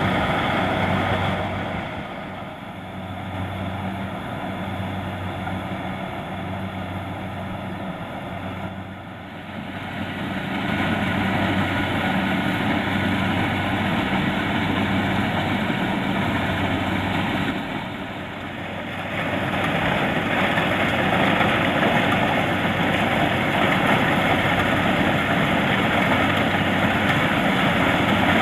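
Kubota DC-70 Plus combine harvester's diesel engine running steadily under load, with the clatter and rush of its cutting and threshing machinery. The sound drops off for several seconds near the start and briefly about two-thirds through, and is loudest near the end.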